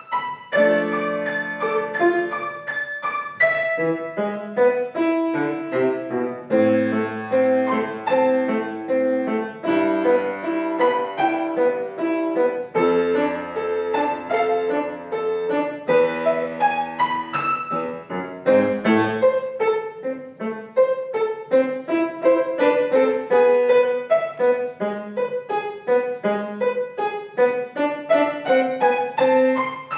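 Piano duet, one piano four hands, playing a lively piece in quick, evenly pulsed notes over a moving bass.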